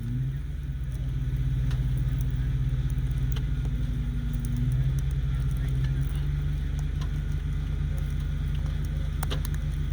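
Truck engine running steadily, a low even hum, with a few faint clicks over it.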